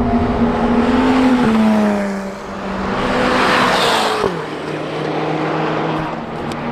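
Sports car driving past at a steady engine speed. The exhaust note grows louder, then drops in pitch and fades as it passes about four seconds in.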